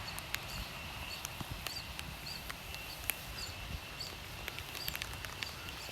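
Forest ambience: a steady high insect drone, short high chirps repeating about twice a second, and scattered sharp clicks.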